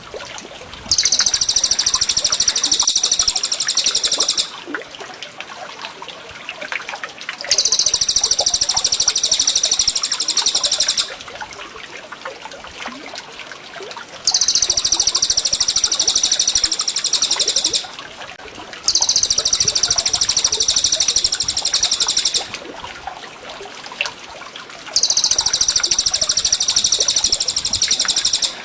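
A songbird's high, rapid trilled song repeated in five bursts of about three and a half seconds each, over a steady trickle of water.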